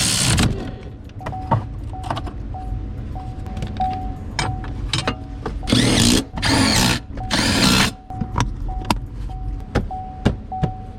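Power drill or impact driver run in three short bursts between about six and eight seconds in, fastening parts as the truck's steering wheel and dash are reassembled. Under it a faint high beep repeats about twice a second.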